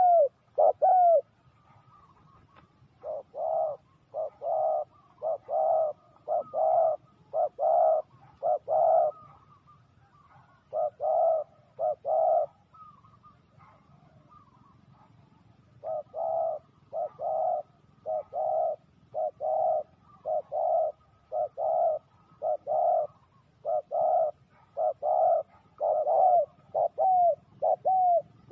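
Spotted doves cooing: runs of short, repeated coo notes, about one and a half a second, broken by a few pauses of one to three seconds.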